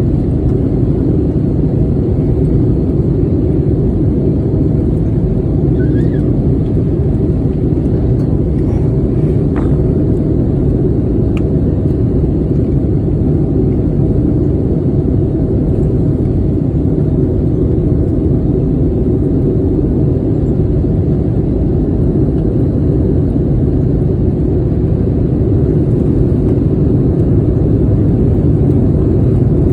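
Airliner cabin noise: a steady low rumble of engines and airflow heard from inside the cabin.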